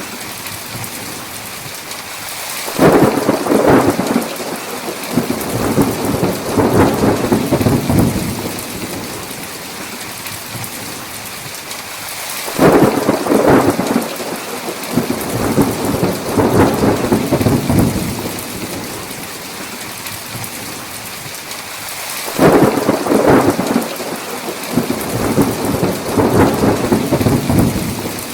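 Heavy rain falling steadily, with three rolls of thunder about ten seconds apart. Each roll starts suddenly and rumbles on for several seconds.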